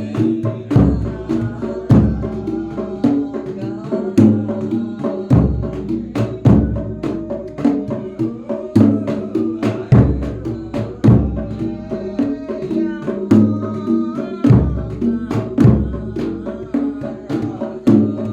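Javanese folk ensemble playing, led by the jedor bass drum struck in deep beats about a second apart, often in pairs. Lighter, quicker hand-drum strokes and a wavering melodic line run over it.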